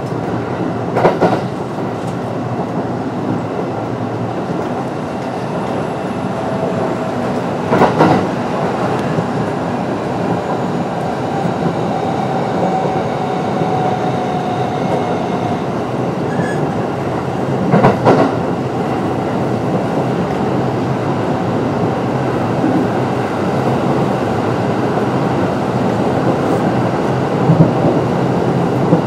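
Kintetsu 9020 series electric train running at speed, heard from inside the car: a steady rumble of wheels on rail. A few louder bursts come several seconds apart, at about 1, 8, 18 and 27 s.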